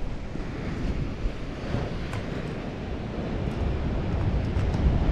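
Wind buffeting the microphone over the rush of ocean surf, growing louder toward the end.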